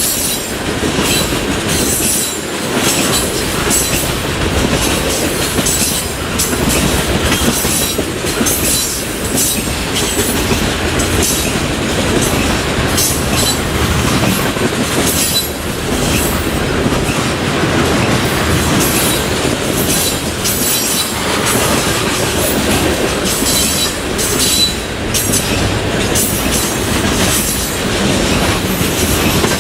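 Norfolk Southern freight train cars rolling past at speed, steel wheels clicking steadily over rail joints under a continuous rumble. A thin, high wheel squeal comes and goes.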